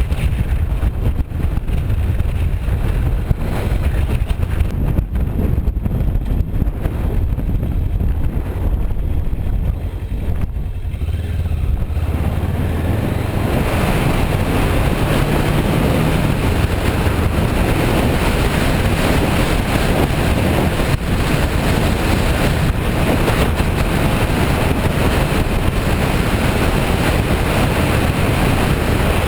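Heavy wind buffeting on the microphone of a riding motorcycle, over the low running of the 2008 Kawasaki Versys 650's parallel-twin engine. The rush of wind gets fuller and louder about 13 seconds in.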